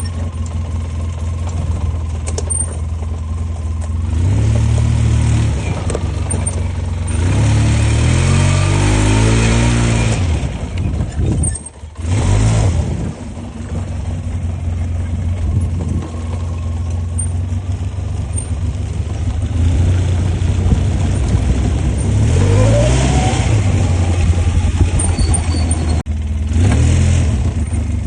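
ATV engine running and revving up and down over and over, rising and falling in pitch. It drops off briefly about twelve seconds in.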